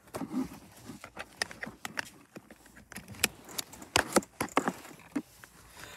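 Irregular clicks, knocks and rustling of someone settling into a car seat and pulling out and buckling a seatbelt.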